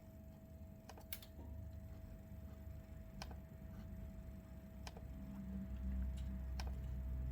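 Computer mouse clicking: single sharp clicks every second and a half or so, over a steady low hum that swells near the end.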